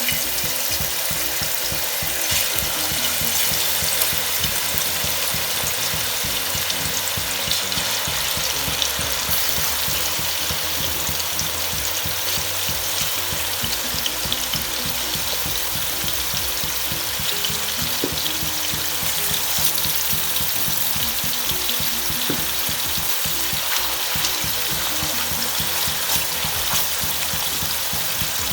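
Marinated chicken pieces frying in hot coconut oil in a heavy-bottomed uruli: a steady, dense sizzle.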